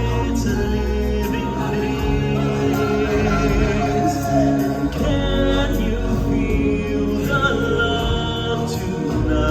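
Live stage-show music: a group of singers holding long notes over a band with a steady bass.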